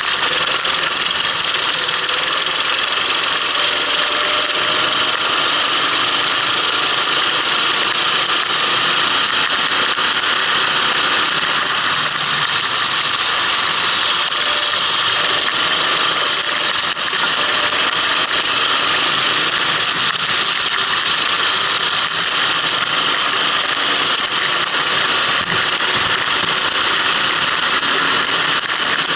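Kart engine running on track, heard onboard, under a loud steady hiss of wind and wet-track spray; the engine's pitch wavers slightly as the driver works through the corners.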